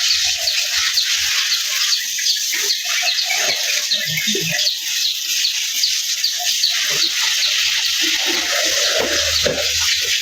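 Steady hiss of water spraying during the motorbike wash, with a string of short, high chirps repeating over it about two or three times a second.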